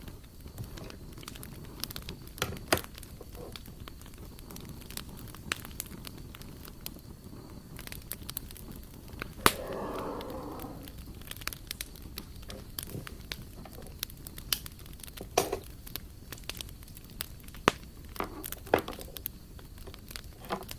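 Wood fire crackling: irregular sharp pops and snaps over a soft steady hiss, with one longer, louder sound lasting over a second about halfway through.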